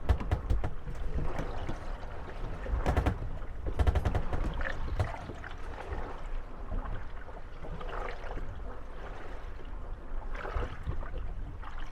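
Moored wooden gondolas rocking on the waves, knocking and creaking against each other over a steady wash of water. Clusters of sharp knocks come about a second in, around three to four seconds in, and near the end.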